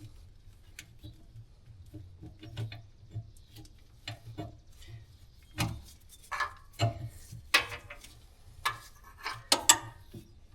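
Irregular metallic clicks and clinks of hand tools working hydraulic hose fittings on a skid loader, sparse at first and with several louder knocks in the second half, over a faint low hum.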